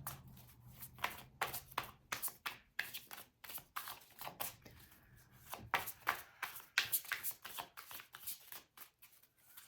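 A deck of tarot cards being shuffled by hand: a quick, irregular run of soft card flicks and clicks.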